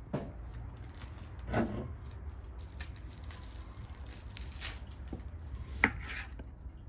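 Scattered handling noises of food preparation: soft rustling and light taps, a louder scrape or rustle about one and a half seconds in, and one sharp knock near the end.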